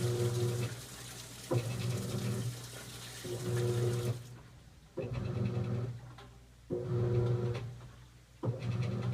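Continental Aqua Saver 16 kg top-loading washing machine agitating: its motor hums in six short strokes, one about every second and a half, as the agitator swings back and forth, with water sloshing in the tub over the first four seconds.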